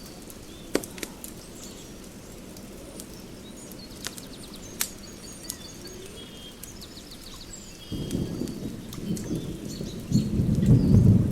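Fire crackling with scattered sharp pops, with birds chirping and twittering over it. From about eight seconds in, a low rumble swells up and is loudest near the end.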